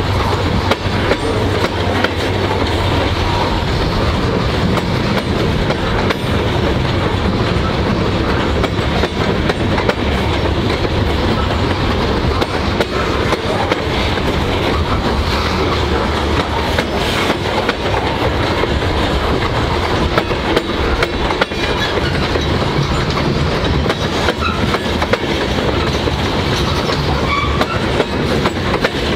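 Loaded covered hopper cars of a freight train rolling steadily past: steel wheels clicking over rail joints above a continuous low rolling noise.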